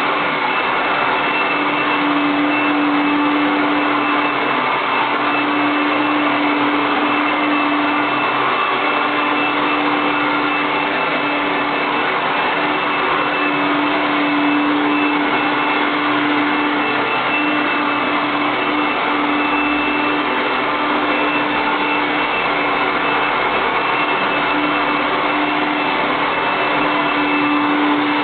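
Automatic vacuum cleaner running steadily: a constant motor hum over an even rush of air.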